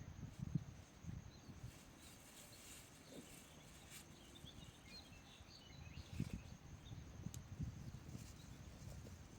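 Faint outdoor ambience: scattered small bird chirps, mostly in the middle, over irregular low thuds and rumbling.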